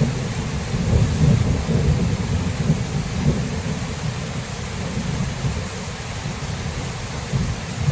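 Thunderstorm: a low rolling rumble of thunder over steady rain. The rumble is strongest in the first few seconds and slowly eases off.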